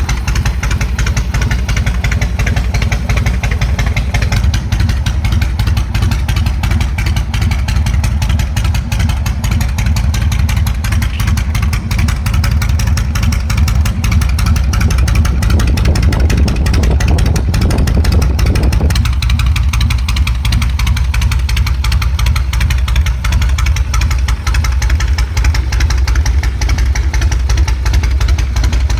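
Yamaha Road Star 1700's air-cooled, carburetted pushrod V-twin running at a steady idle through aftermarket exhausts. The sound swells briefly a little over halfway through, then settles back to idle.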